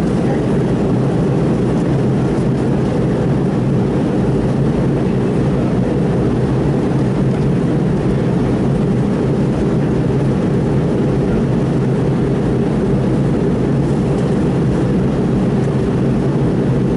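Steady, deep cabin drone of a McDonnell Douglas MD-82 airliner in flight, its rear-mounted Pratt & Whitney JT8D turbofans running with airflow noise, heard from inside the passenger cabin. It holds even throughout with no change in level.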